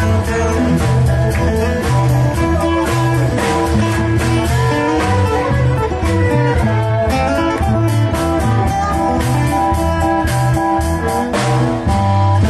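Live band music, guitar to the fore, over a bass line and a steady beat.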